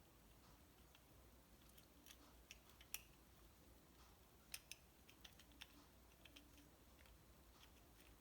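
Near silence with faint, scattered light clicks of small parts or tools being handled, the loudest about three seconds in and about four and a half seconds in.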